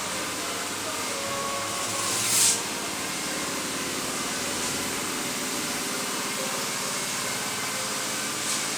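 Steady machine noise with a short, sharp burst of hissing air about two and a half seconds in and a fainter hiss near the end.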